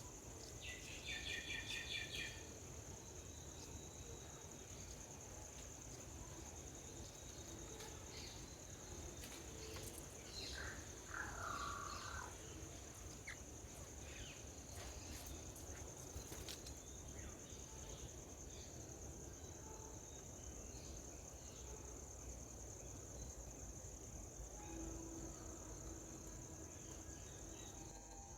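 Outdoor insect chorus: a steady high-pitched trill throughout, with a bird's short pulsed call about a second in and another lower call a little before halfway. Scattered faint clicks run through it.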